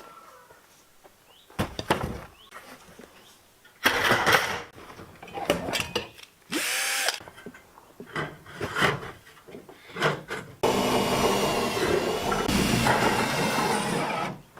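Power drill running in a few short bursts, then in one steady run of about four seconds near the end, its pitch dipping briefly midway through that run.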